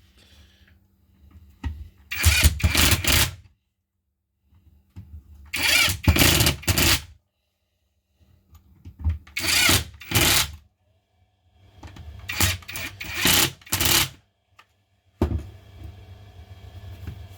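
Cordless power driver running in four short bursts of about two seconds each, with pauses between, as screws are driven or the tool is run. A steadier, quieter hum sets in near the end.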